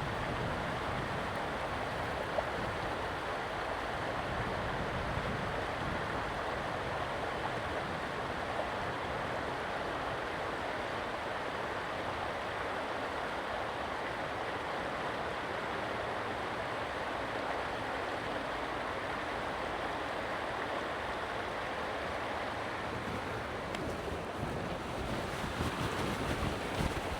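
Creek water rushing in a steady, even wash. Wind buffets the microphone near the end.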